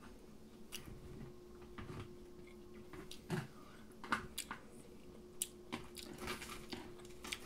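Close-up chewing and biting of crispy fried food, soft and mouth-wet, with occasional short clicks and taps, over a faint steady hum.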